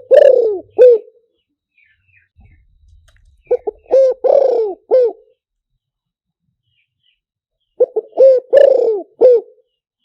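Spotted dove cooing: three phrases about four seconds apart, each a few short coos around a longer coo that falls in pitch. It is a loud recorded lure call played to draw wild spotted doves.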